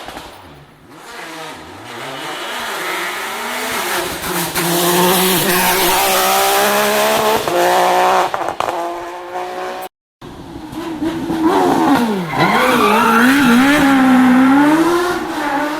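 Rally car engines at full throttle, the pitch climbing and dropping with gear changes and lifts. The sound cuts off abruptly about two-thirds of the way through and another car's engine comes in, revving up and down.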